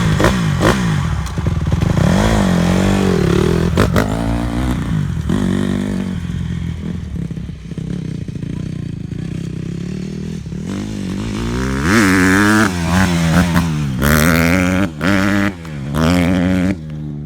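Honda CRF150R dirt bike's single-cylinder four-stroke engine being ridden, its pitch rising and falling over and over as the throttle is opened and closed. Near the end it revs highest, with the throttle chopped off briefly a few times.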